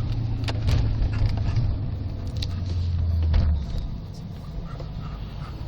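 BMW 540i V8 with a new exhaust running steadily, its low note dropping in pitch about two and a half seconds in, then fading away at about three and a half seconds.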